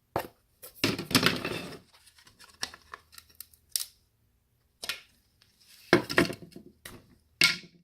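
Plastic housing of a wireless access point being pulled apart and handled: a run of clicks, snaps and plastic clatter, with a longer crackling scrape about a second in.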